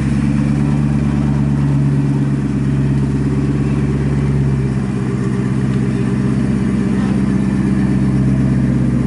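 Car engine running steadily while driving, a low hum with a slight easing about five seconds in.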